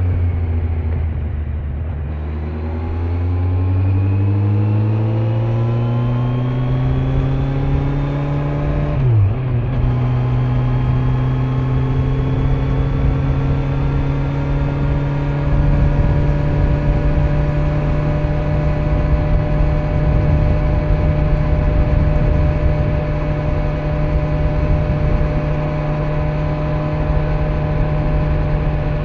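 Kawasaki Z900's inline-four engine through its stock exhaust, easing off briefly, then pulling up in pitch under acceleration. After a short break in the engine note about nine seconds in, it cruises at a steady pitch. Wind and road noise run underneath.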